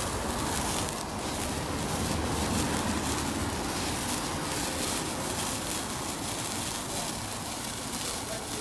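Hand-held sparkler burning with a steady fizzing crackle.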